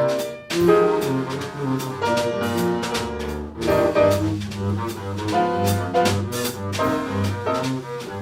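Live jazz from a small group: double bass notes under a melody line, with frequent cymbal and drum strokes.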